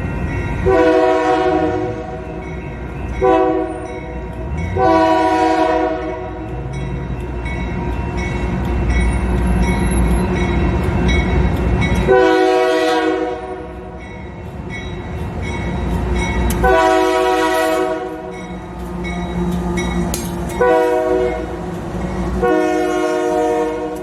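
Diesel locomotive air horn sounding a series of blasts over the rumble of the train: long, short, long, then after a pause the grade-crossing signal of long, long, short, long.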